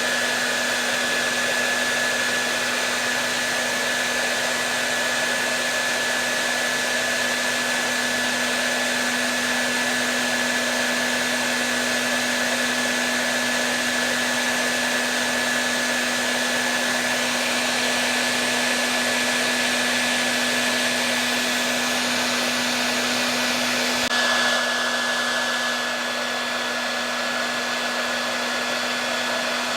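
Hair dryer running continuously: a steady rush of air with a low motor hum and a thin steady whine. Near the end there is a slight shift in the sound, after which it is a little quieter.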